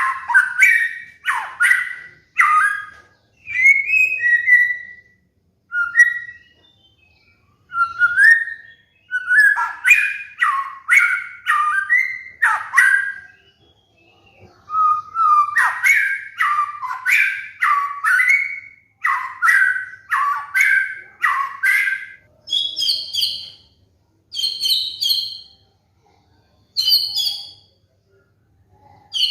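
White-rumped shama (murai batu) singing loud phrases of rapidly repeated down-slurred whistled notes, broken by short pauses. About three-quarters of the way through, it switches to higher paired notes.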